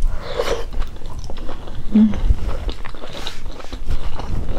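Close-miked chewing of a hand-eaten mouthful of ugali with beef stew and cabbage, with many small wet mouth clicks.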